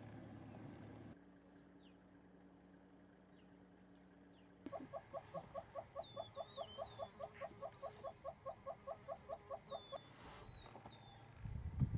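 A low steady hum; then, about five seconds in, a bird calls in a rapid run of repeated harsh notes, about five a second, for some five seconds, while smaller birds chirp higher up. A short low thump comes near the end.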